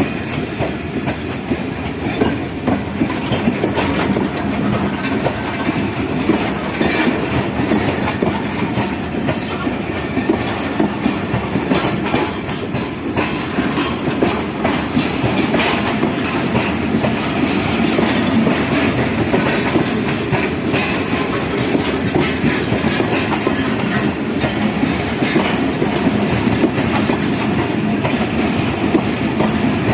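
A train running steadily along the track, its wheels clicking over the rail joints over a continuous low rolling noise.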